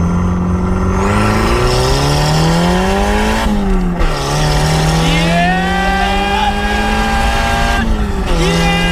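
Turbocharged 1.6-litre Mazda Miata four-cylinder accelerating hard through the gears, heard from inside the open cabin. The revs climb, fall at a gear change about three and a half seconds in, climb again more slowly, and fall at another shift near the end.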